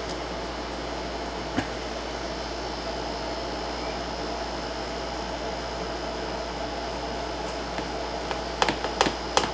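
Steady kitchen hum and hiss, with a single clink about a second and a half in. Near the end comes a quick run of sharp taps, like a measuring spoon knocking against a bowl.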